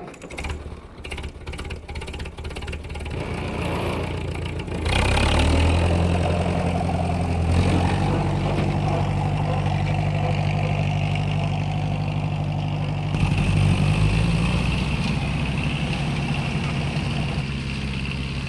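Vehicle engine sound: a rapid clicking like cranking for about five seconds, then catching and idling steadily, with a change in tone about thirteen seconds in.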